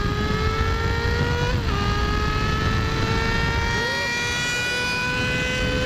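Suzuki GSX-R 1000's inline-four engine under hard acceleration in low power mode, its pitch climbing steadily and dropping at an upshift about a second and a half in and again near the end, with wind rush on the microphone.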